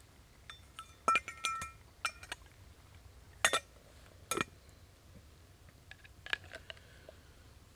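Metal cooking gear clinking: a utensil striking a metal billy can, several quick strikes about a second in with a short ringing, then a few single knocks.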